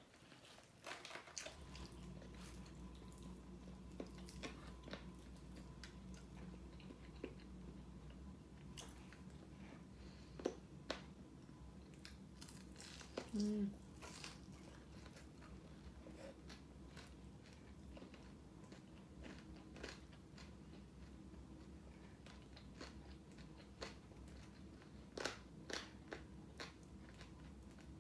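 Close-up eating sounds of crisp deep-fried whole chicken being bitten and chewed: scattered crunches and chewing, with a steady low hum underneath from about a second and a half in.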